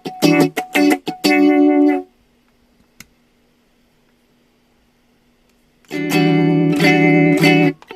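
Telecaster electric guitar played through a Car Crush chorus/vibe pedal into a Roland JC-90 amp, strumming chords in short, chopped strokes. The playing stops about two seconds in, leaving a faint hum and one click, and strummed chords start again about six seconds in.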